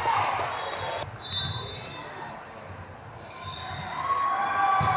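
Indoor volleyball play: the ball is struck sharply about a second in and again near the end, over dull thuds on the court and players' voices calling out.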